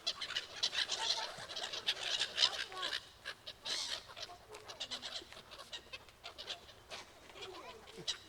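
A flock of birds calling over one another in a dense chatter of short calls, busiest in the first three seconds and thinner after.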